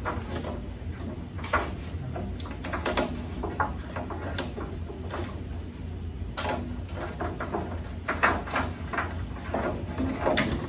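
Scattered knocks, clunks and scrapes of hand work on a pickup truck as a part is worked through an opening, over a steady low hum.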